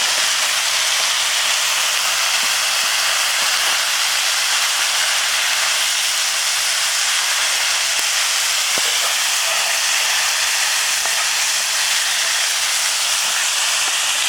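A bonfire hissing steadily with steam. The loud, even hiss starts abruptly and does not let up.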